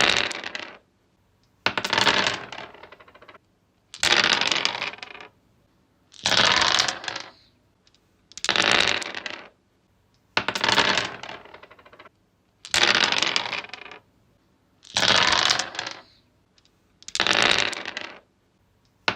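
Dice rolled again and again on a wooden surface: each roll is a clattering rattle of about a second that dies away, repeating roughly every two seconds, about nine rolls in all.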